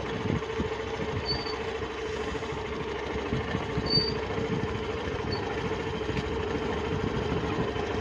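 Hero Glamour motorcycle's single-cylinder engine running steadily at low speed on a rough dirt track, a constant low hum over a rumble.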